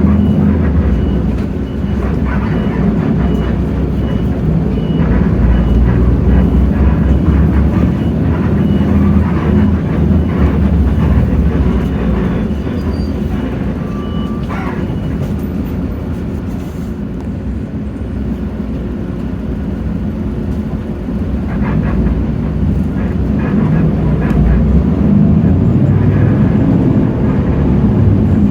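Hino J08E-VN 7.7-litre six-cylinder diesel of a city bus running under way, heard from inside the bus with road noise. It eases off in the middle and builds up again near the end.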